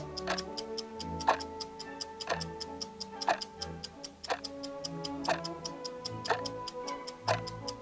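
Countdown-clock ticking sound effect: a loud tick once a second with several softer, quicker ticks in between, over background music with held notes.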